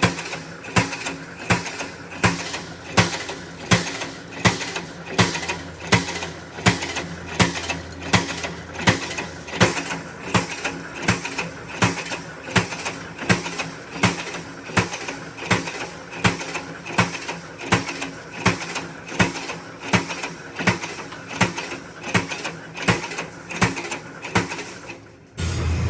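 Steady hand hammering: sharp metallic strikes at an even pace of about three blows every two seconds, stopping shortly before the end.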